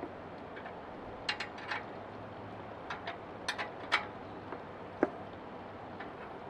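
Hand tools and metal parts of a wood chipper being worked on: about ten scattered sharp clicks and knocks, the loudest two near the middle, one of them with a short ring.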